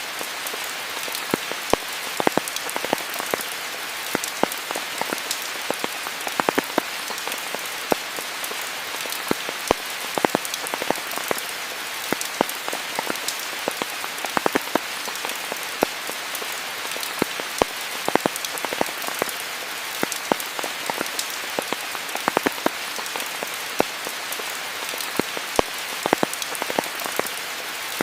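Steady rainfall: an even hiss of rain with many sharp, close drop impacts scattered irregularly through it.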